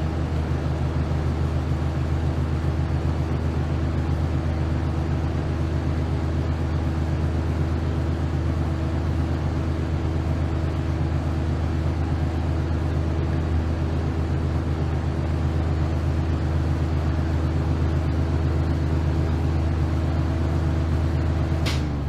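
Electric fan running steadily, its motor humming under the rush of the blades. Near the end a switch clicks and the hum starts to fall in pitch as the fan is switched off and begins to spin down.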